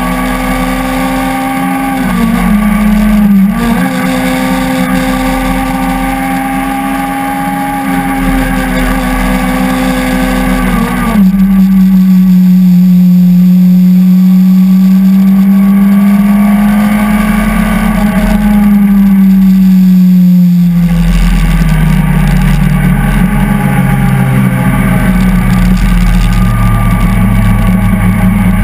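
Peugeot 205 hillclimb car's engine heard from inside the cockpit, held at high revs with two brief dips in revs early on, louder from about 11 seconds in. Near the end the revs fall away steadily.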